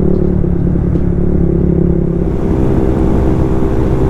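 Suzuki Raider 150 Fi single-cylinder four-stroke motorcycle engine running while riding, fitted with an oversized aftermarket exhaust. About two seconds in, its steady note breaks up and wind noise rises.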